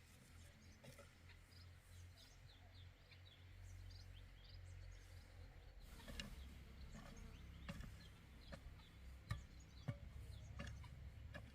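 Quiet rural ambience: faint, scattered bird chirps over a low steady rumble, with a few sharp clicks in the second half.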